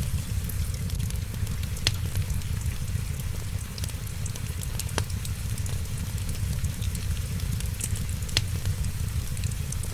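Wood fire crackling with a steady low rumble and soft hiss, broken by three sharp pops about two, five and eight seconds in.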